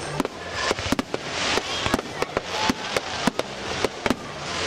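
Aerial fireworks going off in quick succession: sharp bangs several times a second over a hissing, crackling wash that swells and fades.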